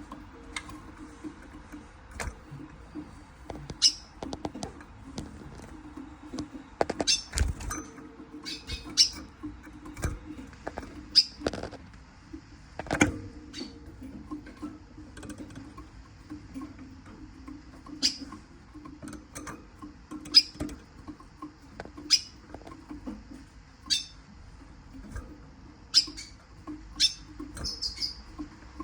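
Siskin giving short, high chirps every second or two, mixed with sharp clicks and scratchy taps, over a steady low hum.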